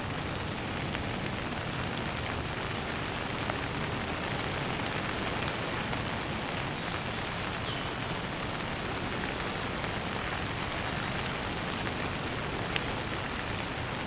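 Steady rain falling. A few faint, short bird chirps come through it, mostly around the middle.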